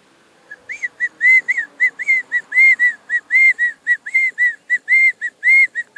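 A man whistling an imitation of a quail's call: a rapid run of short, high whistled notes, about four a second, alternating longer arched notes with shorter ones, beginning about half a second in.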